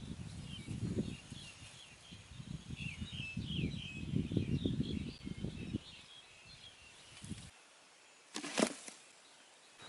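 Birds chirping over and over, with irregular low fluttering like wings beating, for about the first six seconds. A single short, sharp rustle or knock follows near the end.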